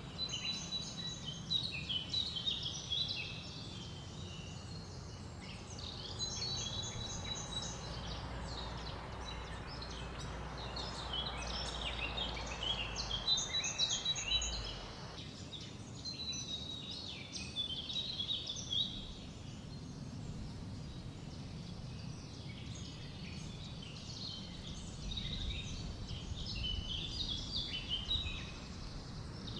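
Several songbirds chirping and trilling over one another without pause, over a low steady wind rumble. A soft hiss underneath cuts off abruptly about halfway through.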